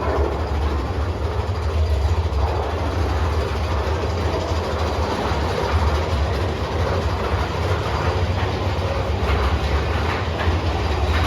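Mine-train roller coaster cars rolling along the track, with a steady low rumble and rattle.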